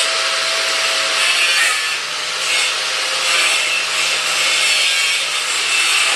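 A power tool running under load with a steady, rough, hissing sound that swells slightly now and then.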